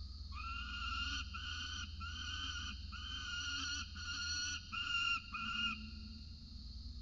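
Peregrine falcon calling: a series of seven drawn-out, wailing calls in quick succession, the last two shorter and louder.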